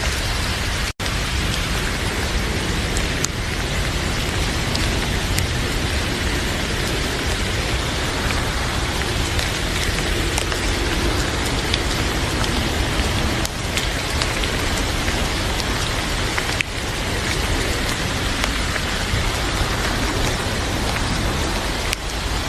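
Heavy rain falling steadily, with a few faint sharp pops scattered through it. The sound cuts out for an instant about a second in.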